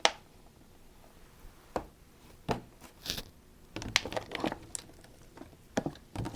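Scattered short crinkles and rustles of plastic packaging as pizza dough is pulled out of it by hand.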